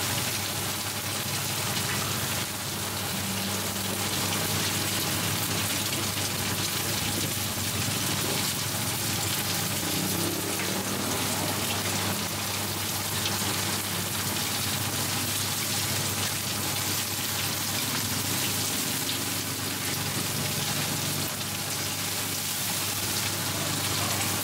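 Shrimp and mussel pancake batter sizzling in hot oil on a wide flat pan, a steady crackling hiss.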